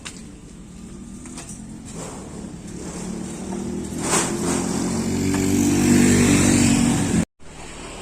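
Motorcycle engine revving up, its pitch and loudness rising over several seconds as it accelerates, then cut off abruptly about seven seconds in; a quieter engine sound follows.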